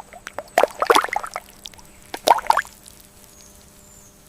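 Water splashing and plopping in two short bursts, each about half a second long and roughly a second and a half apart, then quieter.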